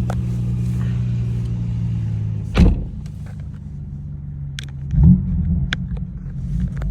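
BMW M4's twin-turbo straight-six idling, then blipped twice, about two and a half seconds in and again near the five-second mark, with sharp exhaust pops and crackles (burbles) between and after the revs.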